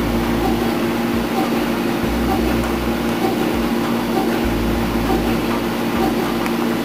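Machine tool running steadily: a dense mechanical noise with a constant low hum.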